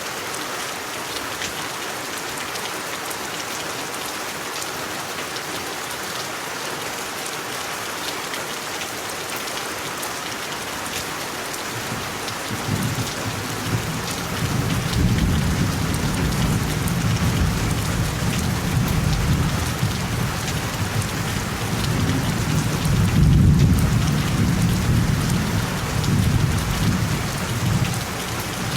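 Steady rain falling. About halfway through, a long low rumble of thunder builds, swells to its loudest a few seconds before the end and then fades.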